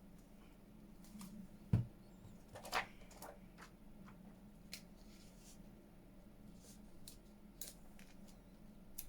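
Quiet handling of paper and craft tools on a work table: a single soft knock about two seconds in, a brief scraping rustle just after, then scattered light clicks and taps.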